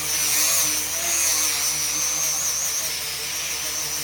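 An electric power tool running steadily, with a high whine that wavers slightly in pitch over a hiss.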